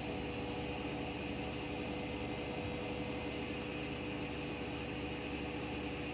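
Washing machine running with a steady whir: an even hum with a few steady tones from the motor.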